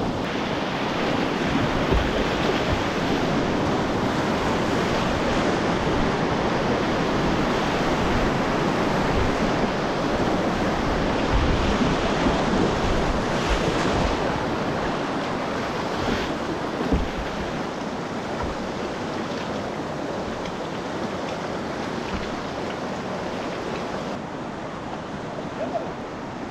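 Rushing whitewater of a river rapid heard close up from a kayak: a steady, dense wash of moving water with occasional low thumps of splashes and buffeting on the microphone, easing slightly near the end.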